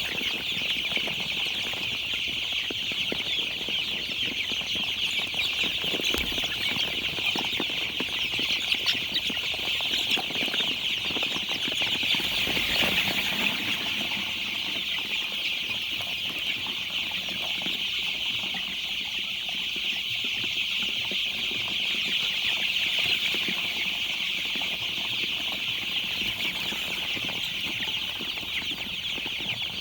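A flock of young chicks peeping continuously, many high cheeps overlapping into a steady chorus.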